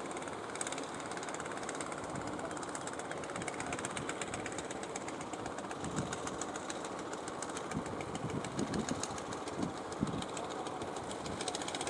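Fishing boat engine running steadily with a fast, even knocking beat.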